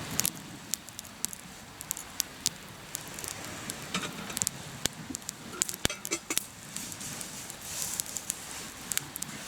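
Hardwood campfire burning in a fire stand, crackling with many sharp, irregular pops.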